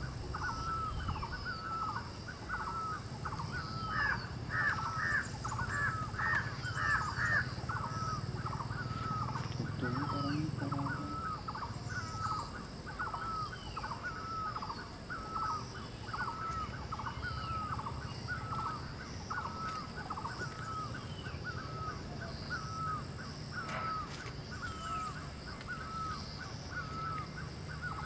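A bird calling over and over, a short hooked note about once a second, with a second bird adding higher notes for a few seconds near the start.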